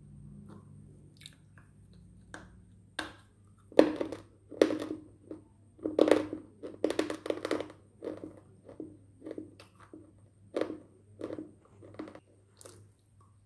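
Crunchy coloured slate sticks being chewed: irregular crunches start about three seconds in, come thickest in the middle and thin out near the end.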